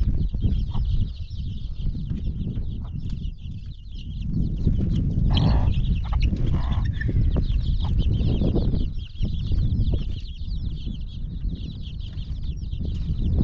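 Birds chirping densely and constantly, with a louder call about five and a half seconds in, over a strong low rumble.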